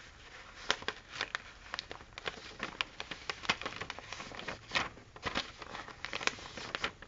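A sheet of paper being folded and creased by hand, with irregular crinkles and sharp crackles.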